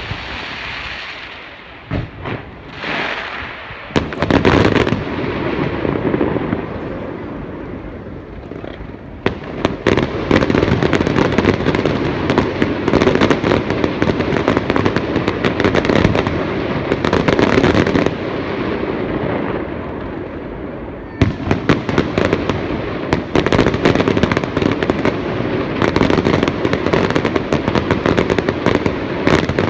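An aerial fireworks display: a few separate bursts at first, then long dense volleys of rapid crackling bangs, with a brief lull about twenty seconds in.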